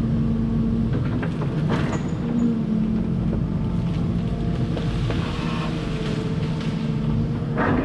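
Volvo 140 excavator's diesel engine running steadily while working, with a single sharp knock about two seconds in.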